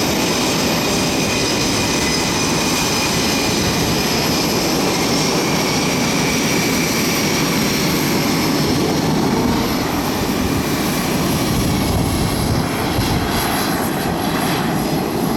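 Blue Angels F/A-18 Super Hornet jets taxiing at low power: a steady twin-engine jet whine with high, thin tones over a broad rumble, easing a little in the last few seconds.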